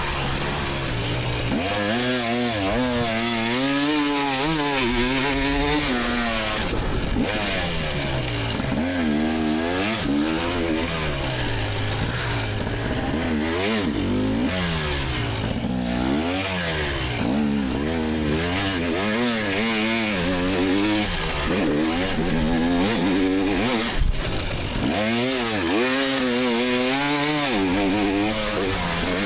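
2024 GasGas EX300 single-cylinder two-stroke dirt bike engine ridden hard, revving up and falling off again and again through throttle and gear changes, with one sharp knock near the end.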